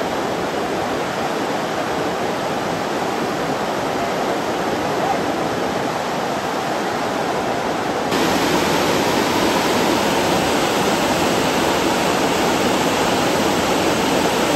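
Steady rush of creek water pouring over rocks or a low spillway. It gets a little louder about eight seconds in.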